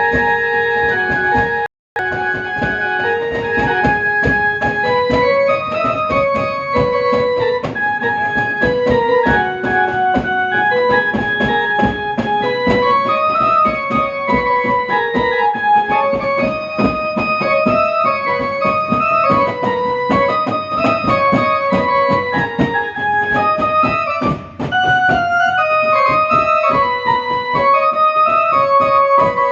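Instrumental devotional music: an electronic keyboard plays a stepping melody of held notes over a busy percussion beat. The sound cuts out briefly about two seconds in.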